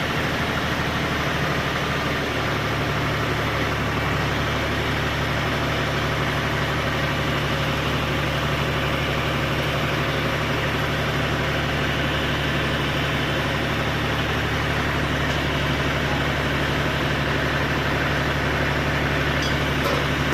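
Tractor engine running steadily, with a low, even drone. It deepens slightly about two seconds in and then holds constant.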